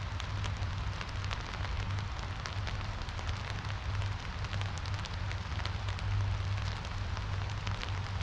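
Rain falling on an umbrella, many separate drops ticking over a steady low rumble.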